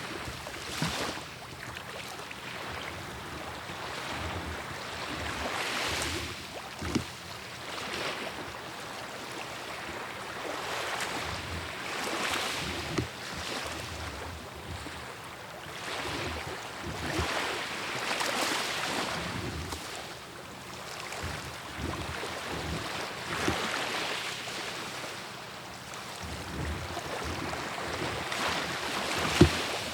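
Sea waves washing onto the shore, the surf swelling and falling back every few seconds. A few sharp knocks stand out, the loudest near the end.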